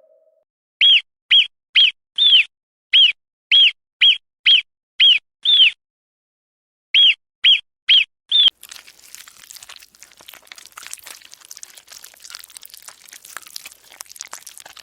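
Animal chirps: fourteen short, high calls, each rising and then falling in pitch, in a run of ten and then a run of four, about two a second. Faint crackling noise follows.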